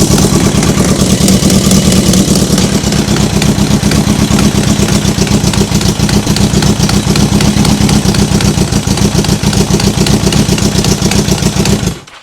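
Yamaha XJ750's air-cooled inline-four engine running at a steady idle through its newly fabricated custom exhaust on a first start, not sounding very well, then shut off abruptly near the end.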